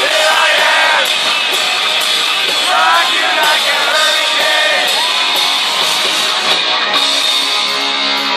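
Live rock band playing loudly, with distorted guitars, a drum beat and a singer, recorded from within the audience.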